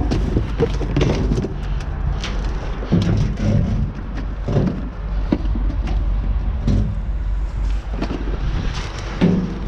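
Wind buffeting the microphone in a steady low rumble, with scattered knocks, clicks and clanks of junk being moved around.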